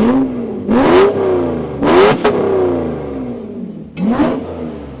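Mercedes SL600 V12 revved hard four times, the pitch rising quickly and falling back to idle after each, with a couple of sharp cracks at the top of the third rev. It is running through the exhaust being tested, which sounds better but not yet like the Pagani Zonda sound the owner is after.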